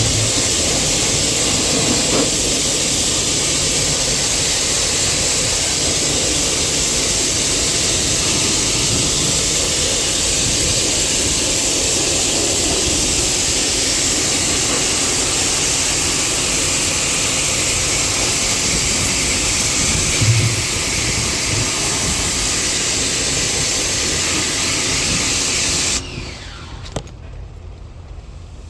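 High-pressure washer jet spraying water onto a ceiling-cassette air conditioner's parts, a steady hiss that cuts off suddenly near the end, leaving a much quieter background.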